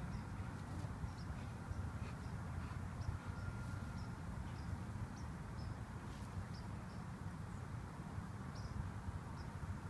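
Short high chirps of small birds, repeated irregularly, over a steady low outdoor rumble.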